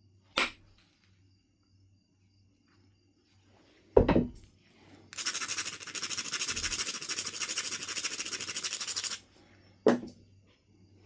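Knife River flint being knapped: a sharp strike on the stone about four seconds in, then about four seconds of fast, even scraping strokes, typical of abrading the edge to prepare a striking platform, and another sharp strike near the end.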